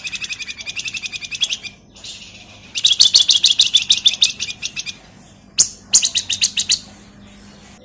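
Flamboyan (wergan Jawa) songbird giving rapid chattering trills in three bursts, each a fast run of high, evenly spaced notes. A sharp click comes just before the third burst.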